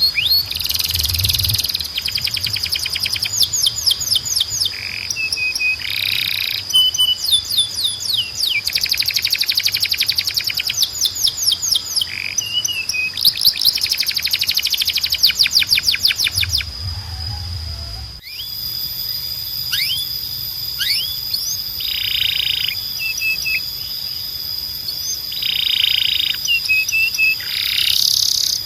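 Canary singing: fast trills of rapidly repeated high notes and short whistled phrases over a steady high tone, with the song changing abruptly about eighteen seconds in.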